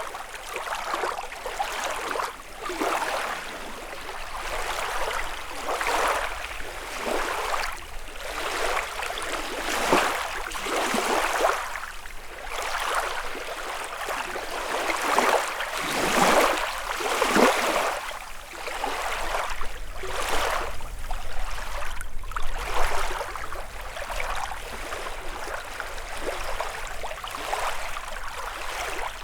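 Small lake waves lapping and splashing on the shore, a new wash breaking every second or two.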